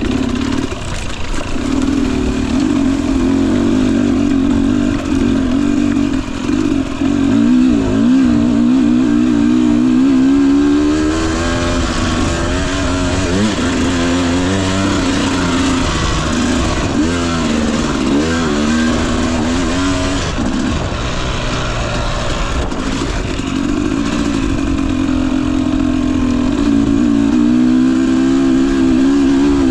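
Husqvarna TE250i two-stroke dirt bike engine running at low to moderate revs on the trail, its pitch rising and falling with the throttle. A hiss swells over the engine for several seconds in the middle.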